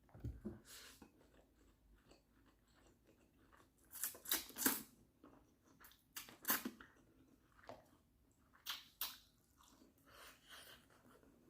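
Close-miked chewing and mouth smacking while eating Indomie mi goreng instant noodles. It comes in about five short bursts with quiet pauses between them, loudest a little past the middle.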